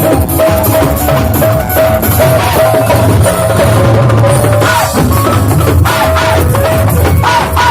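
Live band music: a drum kit and percussion over a heavy bass, with a short melody of clipped notes repeating throughout.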